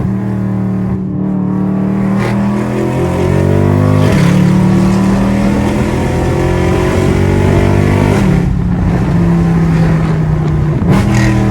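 Straight-piped, naturally aspirated Mercedes-AMG E63 V8 exhaust, heard from inside the cabin, pulling under throttle with a loud, deep drone. Its pitch climbs about three seconds in, then breaks briefly at shifts about four and eight seconds in.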